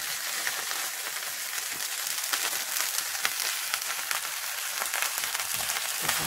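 Lobster tails frying in butter and oil in a pan: a steady sizzle with many small pops and crackles throughout.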